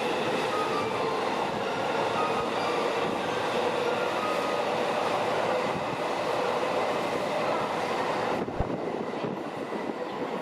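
Underground subway train running at a station platform: steady wheel and rail noise with faint whining tones over it. The sound drops abruptly a little over eight seconds in.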